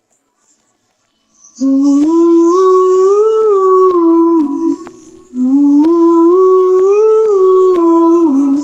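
Near silence, then about a second and a half in a wordless hummed vocal melody begins, gliding up and down through two matching phrases with a short break between them. Sharp clicks of the beat tick along under it.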